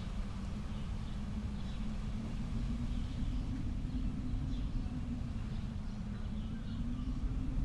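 Steady low wind rumble of an outdoor snowy ambience, with faint, scattered high chirps over it.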